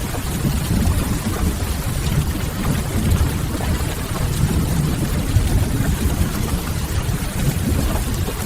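Steady rain ambience: an even hiss of rain over a deep, constant low rumble.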